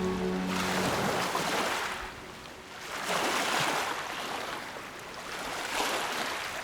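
Water rushing and splashing alongside a moving boat, swelling and ebbing in surges every two to three seconds. Background music fades out in the first second.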